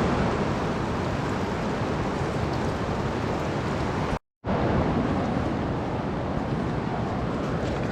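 River water rushing steadily over rapids, a constant roar of noise, with a brief dropout about four seconds in.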